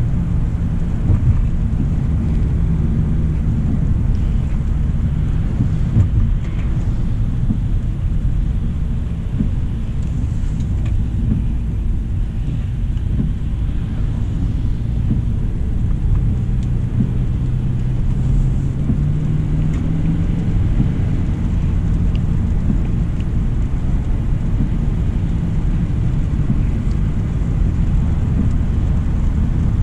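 2025 Hyundai Elantra SEL being driven: a steady low rumble of road and engine noise, with a faint drone that rises a little about two-thirds of the way in.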